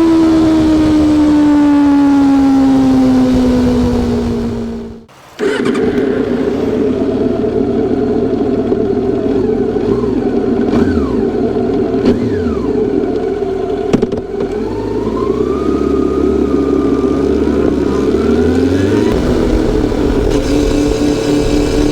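Honda CB400SF Super Four's inline-four engine, its note falling steadily as the bike slows. About five seconds in the sound cuts out briefly, then returns as a steadier, noisier engine and road sound, with short rising and falling notes in the middle. It settles into a steady engine note near the end.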